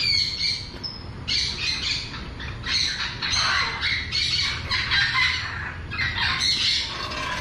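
Bird squawking with harsh calls, repeated about twice a second.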